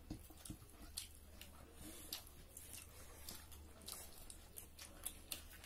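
Faint close-up eating sounds of people chewing duck curry and rice eaten by hand: scattered soft, irregular wet clicks of mouths and fingers.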